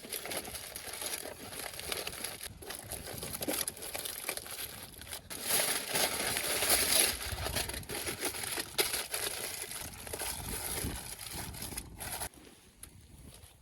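Aluminium foil crinkling and crumpling as it is handled and folded around a foil packet meal, in irregular rustling bursts, loudest about halfway through and dropping away shortly before the end.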